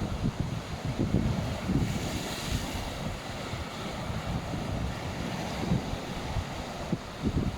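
Sea waves washing onto the shore, with a wave breaking and hissing about two seconds in. Wind buffets the microphone throughout, adding gusty low rumbles.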